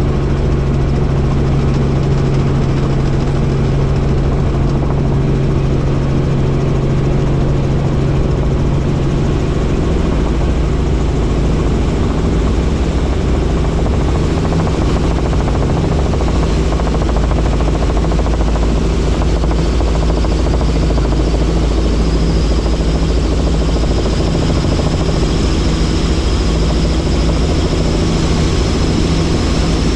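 Helicopter in flight: steady engine and rotor noise. A strong low hum weakens about ten seconds in, and a thin high whine comes in about two-thirds of the way through.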